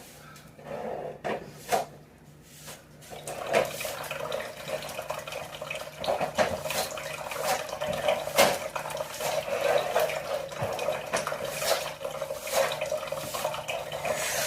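Water running, starting about three and a half seconds in, with scattered clinks of dishes or a pot throughout.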